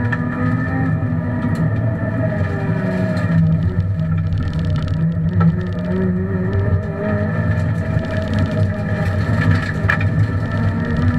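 Honda Civic Type R rally car's four-cylinder engine running hard under load, heard from inside the cabin with road and tyre noise. The engine note shifts in pitch a few times as the driver works through the gears.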